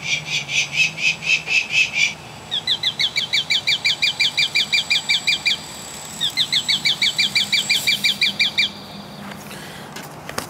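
Bird calls: a fast run of high pulsed notes stops about two seconds in. Then come two rapid trills of quick down-slurred notes, each about three seconds long, with a short break between them.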